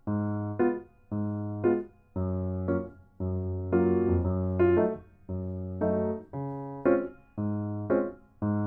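Background music: a bright, bouncy electric piano tune of short repeated chords.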